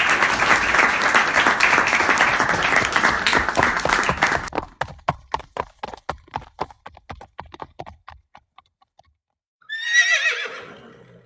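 Horse sound effect: a dense clatter of galloping hooves, then separate hoofbeats that thin out and fade away. Near the end a horse whinnies once, its call wavering and falling in pitch.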